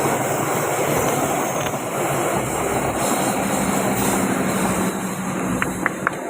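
Train passing close by: a steady rumble and clatter of wheels on the rails, with a few short high squeaks near the end.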